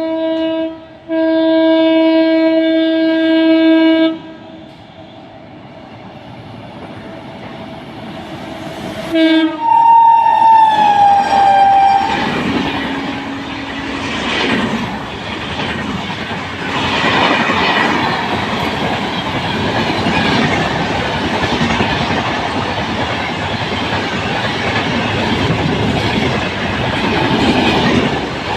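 A locomotive horn sounds two long steady blasts, then a train approaches with a rising rumble. About nine seconds in it gives a short toot and a horn whose pitch drops as it passes. The wheels then clatter over the rail joints as the train rushes by at speed.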